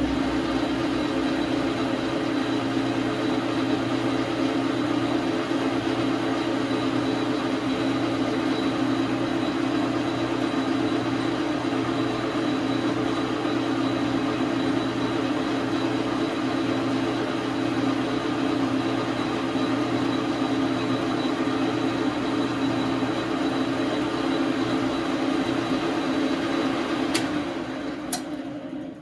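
Dar Sin 12 x 37 manual lathe running under power: a steady mechanical hum with a faint high whine. It winds down over the last two seconds or so, followed by a few clicks.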